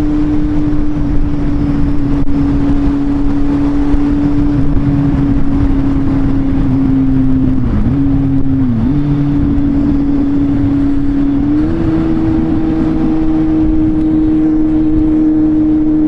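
Kawasaki Z800 inline-four engine running steadily on the move, over heavy wind rush. The engine note dips briefly twice a little before halfway, then steps up slightly in pitch about three-quarters through and holds.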